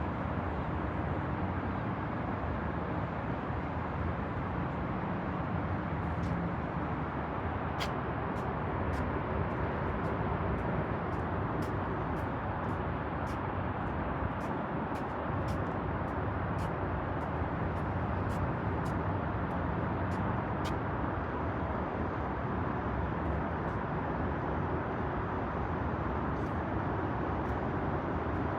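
Steady outdoor city noise, mostly the even hum of road traffic, with no single vehicle standing out. Through the middle there is a run of faint, sharp ticks about twice a second.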